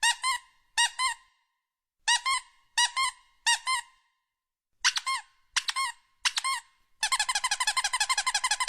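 Repeated high-pitched squeaks, each rising and falling in pitch, coming mostly in quick pairs with short gaps. About seven seconds in they turn into a fast, even run of about seven squeaks a second.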